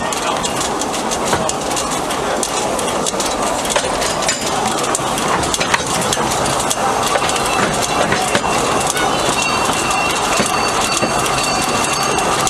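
2 ft gauge light railway train running by, a steady loud noise full of quick clicks and clatter from the wheels on the track. A faint high whine joins in the last few seconds.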